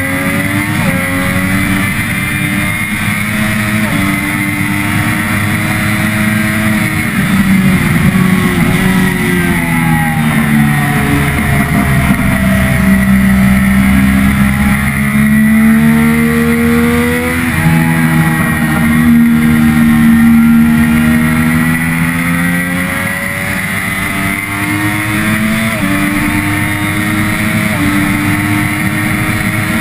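Triumph Daytona 675R inline-three engine at full race pace, revs climbing in steps through upshifts, falling for several seconds mid-way under braking and downshifts, then climbing again through the gears, with wind rushing past the bike-mounted microphone.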